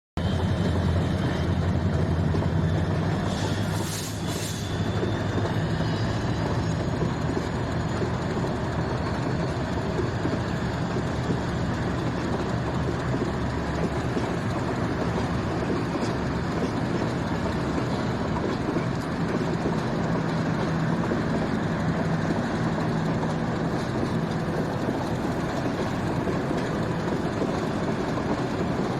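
Intercity passenger train pulling out, a steady low rumble of the locomotive and coaches rolling on the rails. Two short sharp metallic sounds come about four seconds in.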